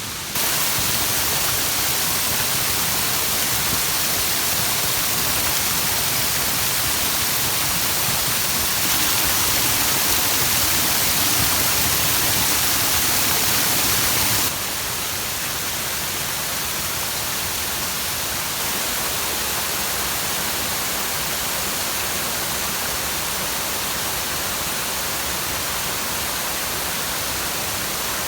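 Waterfall rushing: Shiraito Falls pouring down as a steady, full hiss with no pitch. It jumps abruptly louder or quieter a few times.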